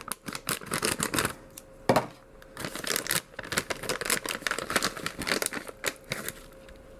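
Crinkly foil candy bag being handled and cut open with scissors: a run of irregular crackles and snips, with one sharper snap about two seconds in.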